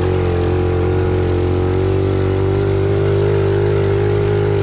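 Single-cylinder pit bike engine running at a steady throttle while being ridden, its pitch holding even.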